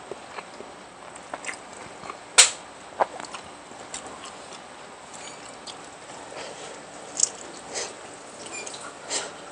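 A person eating close to the microphone: chewing and biting, with scattered short, sharp clicks, the loudest about two and a half seconds in.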